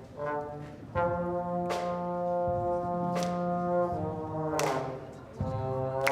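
Brass ensemble, trombones prominent, playing held chords, with a few sharp percussion hits.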